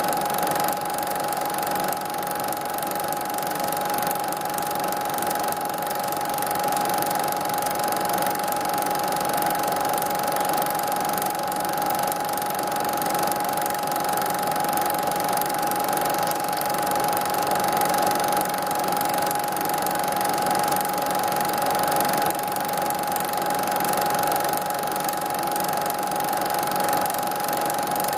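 A steady mechanical whir: one constant tone over an even hiss, unchanging throughout.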